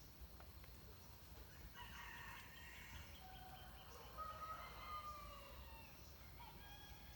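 Faint rooster crowing, starting about two seconds in and lasting a few seconds, over a low steady rumble.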